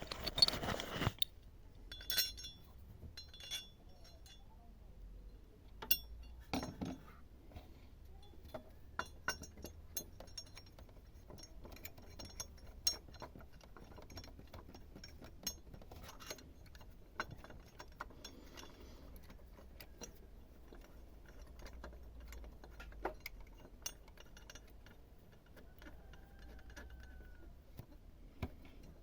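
Scattered metallic clinks and taps of hand tools and bolts against metal during work on a car's engine-mount bracket, with a brief burst of handling noise at the start.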